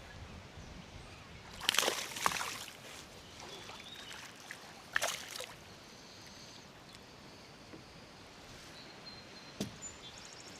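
Water sloshing and splashing in two short bouts, about two seconds in and again about five seconds in, over a quiet steady outdoor background, with a small click near the end.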